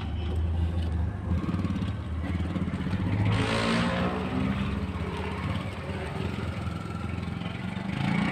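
Motorcycle engine running steadily, with a louder swell in engine noise about three and a half seconds in.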